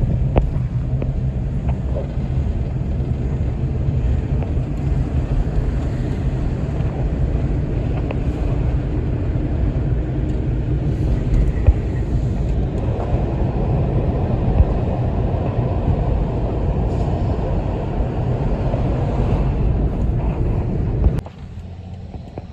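Steady low rumble of road traffic on a multi-lane highway, which cuts off suddenly near the end to a much quieter hum.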